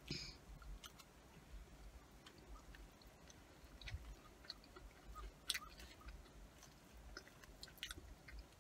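Faint chewing of soft cheesy curly fries, with scattered small clicks and scrapes from a plastic fork picking at the fries in a foam takeout box.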